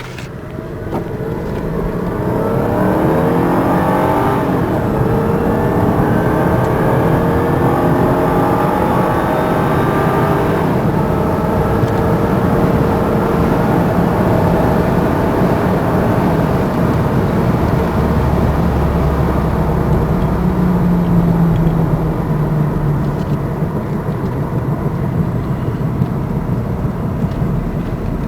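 Mercedes S500's 5.0-litre V8 under full-throttle kickdown acceleration, revving up, with the automatic gearbox upshifting about 4 seconds in and again about 10 seconds in. After that it settles to steadier running with road and tyre noise.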